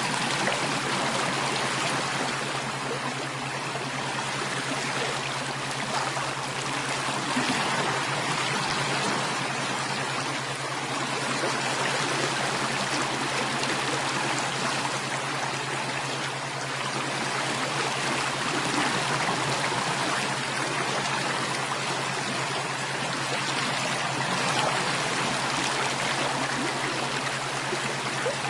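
Steady running water of a stream, flowing and trickling without a break, over a constant low hum.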